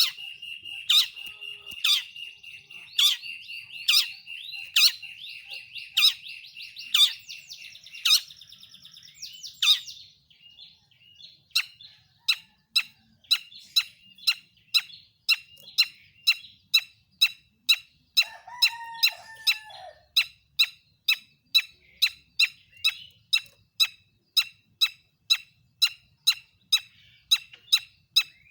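Long-tailed shrike (pentet) singing 'toet toet' calls. For the first ten seconds, sharp notes come about once a second over a steady high tone. Then the notes come faster, about two a second, with a brief lower call in the middle.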